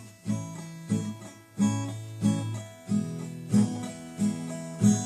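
Acoustic guitar playing chords in a steady rhythm, a new chord struck about every two-thirds of a second, as the instrumental introduction to a song.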